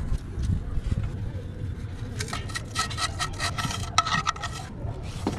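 Repeated scraping strokes, about four a second, over a low rumble; the strokes start about two seconds in and stop shortly before the end.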